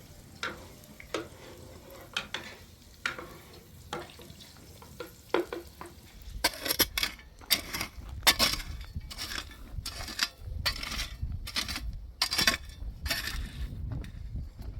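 Metal utensil clinking and scraping in a cooking pot: a few scattered clinks, then from about six seconds in a run of louder rhythmic scraping strokes, one or two a second.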